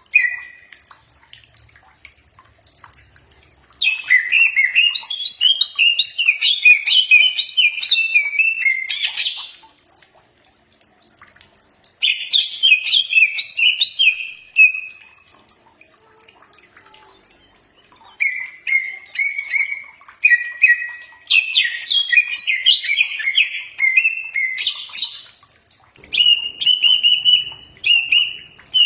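Green leafbird (cucak ijo) singing in bursts of rapid, varied whistled notes. The phrases last several seconds each, with short pauses between them.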